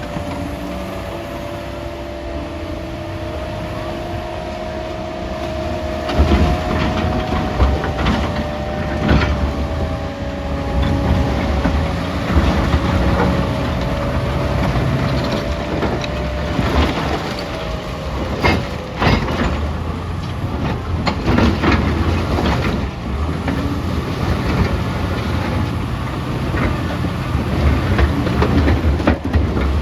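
Caterpillar 966D wheel loader working under load, its diesel engine running with a steady whine that fades out after about eighteen seconds. Rocks knock and clatter repeatedly from about six seconds in.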